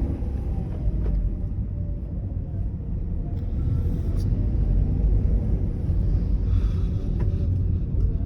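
Steady low rumble of a car being driven, engine and tyre noise heard from inside the cabin, growing slightly louder about halfway through, with a few faint clicks.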